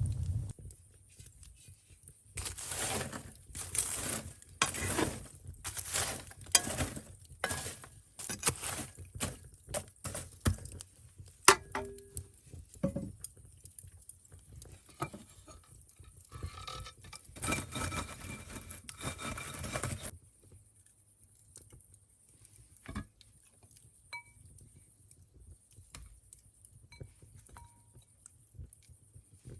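Kitchenware being handled: repeated scraping strokes with clinks, one sharp clink about halfway through, then only faint scattered clicks in the last third.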